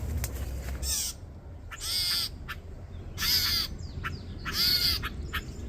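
Adult American robins giving harsh scolding calls, about four calls each a second or so apart: parent birds alarmed by a person near their young.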